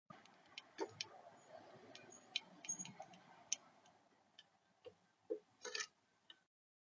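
Faint, irregular clicks and taps on a plastic bird feeder, about a dozen of them spread unevenly, from a visitor pecking and shifting at the seed tray.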